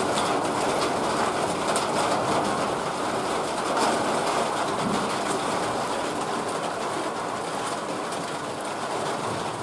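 Heavy rain falling steadily, a dense hiss with fine pattering of drops, easing slightly toward the end.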